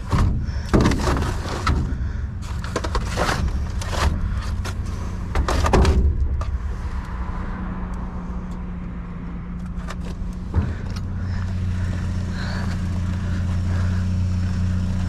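Junk being handled and knocked about in a dumpster, a quick run of clattering knocks over the first six seconds and a single knock about ten and a half seconds in, over the steady low hum of an idling vehicle engine that grows louder in the second half.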